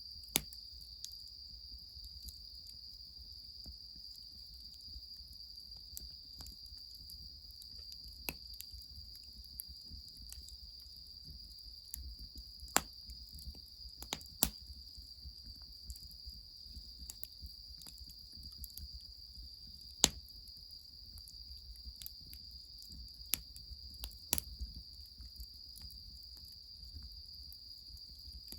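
A steady, high-pitched chorus of insects trilling without a break, over the irregular sharp pops and crackles of a wood fire burning under the bath. The pops are scattered, and a few stand out loudly, the strongest about 20 seconds in.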